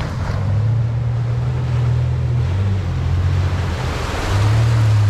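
A four-wheel drive's engine pulling at low revs, its note shifting up and down, under a steady rushing wash of water from rain and the wet track, which swells about four seconds in.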